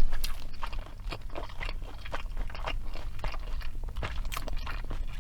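Close-miked chewing of a mouthful of Burger King Whopper. It starts with a loud bite, then goes on as an irregular run of wet, crunchy mouth clicks, several a second.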